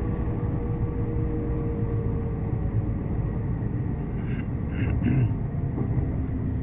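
Train in motion: a steady low rumble of the running train, with a few short hissing sounds about four to five seconds in.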